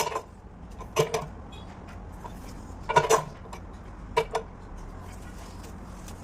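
Short metallic clinks, four of them a second or two apart, each with a brief ring, over a low steady hum.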